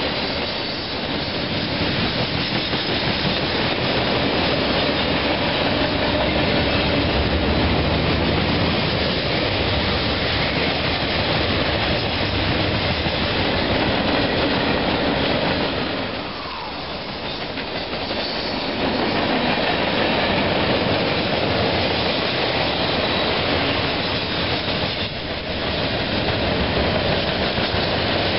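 Freight train passing close by: a steady, loud rush of steel wheels on the rails as the cars roll past. The noise dips briefly a little past halfway through and again near the end.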